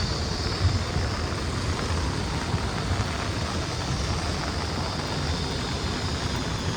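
Heavy rain falling steadily, a dense hiss with a low rumble underneath and no break.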